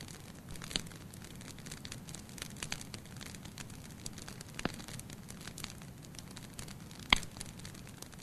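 Fire burning in a fireplace, crackling with many small irregular snaps over a low steady rumble of flame. A single sharp pop, the loudest sound, comes about seven seconds in.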